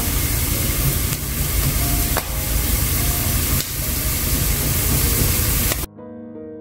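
Spam sticks sizzling steadily in a frying pan as they brown. The sizzle cuts off suddenly near the end, leaving soft background music.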